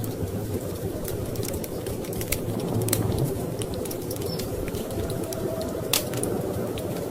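Wood fire crackling in a fireplace, with scattered sharp pops and one louder pop about six seconds in, over a steady low rumble of storm wind.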